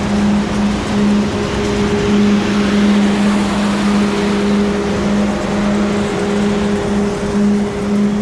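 Heavy farm machinery running steadily, a loud continuous drone with a strong low hum that pulses slightly.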